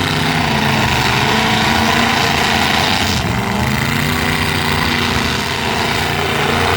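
Several demolition derby truck engines running at once and revving, their pitch rising and falling.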